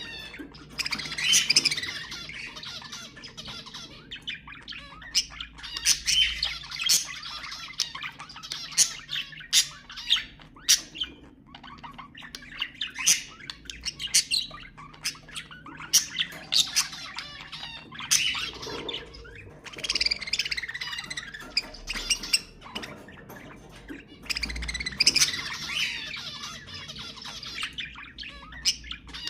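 Budgerigars chattering and warbling without pause, with many sharp chirps and squawks. This is the kind of budgie chatter played to pet budgies to get them singing.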